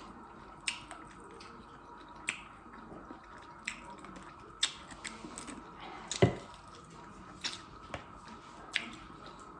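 Close-up eating sounds: sharp, wet mouth clicks and smacks about once a second while chewing, with one louder, deeper knock about six seconds in.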